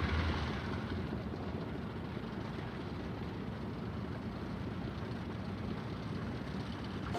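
Steady rumbling of a moving train, with a brief brighter rush at the start as it sets off.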